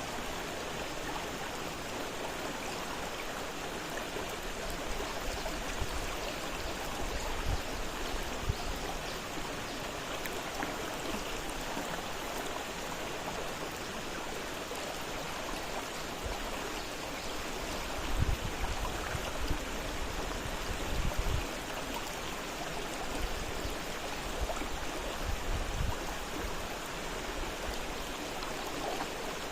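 Fast-flowing river running steadily, an even rush of water. A few short low bumps cut in, the strongest two a few seconds apart past the middle.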